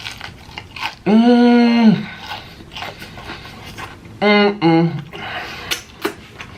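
Mouth noises while eating: small wet clicks and smacks. About a second in comes one long wordless vocal note held at a steady pitch, and around four seconds in two short vocal sounds.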